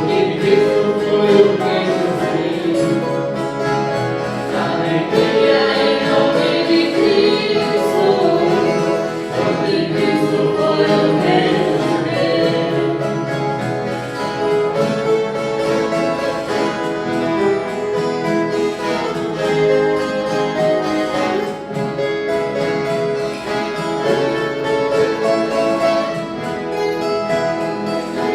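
A viola caipira orchestra, many ten-string Brazilian folk guitars strummed and plucked together, playing a Christmas song with a group of voices singing along.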